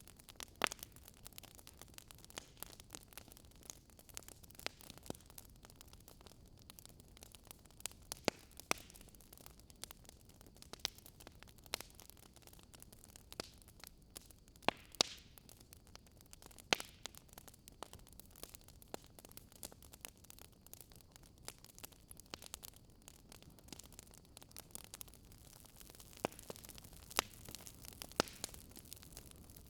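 Wood fire crackling in a fireplace: irregular sharp pops and snaps over a soft steady hiss of the flames.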